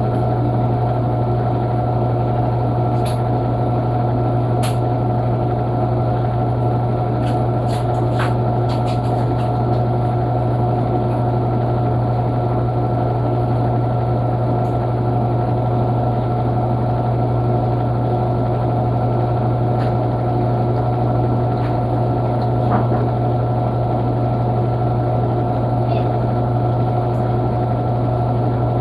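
Panasonic washing machine running with a steady, even motor hum, with a few faint ticks or clicks.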